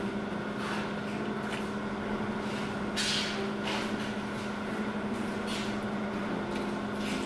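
Chewing a mouthful of crispy fried chicken sandwich with the mouth closed: a few soft crunches, the clearest about three seconds in, over a steady low machine hum in the room.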